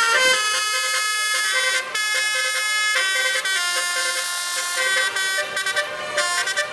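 Truck basuri (telolet) horn playing a tune: several horn notes sounding together and changing pitch in steps.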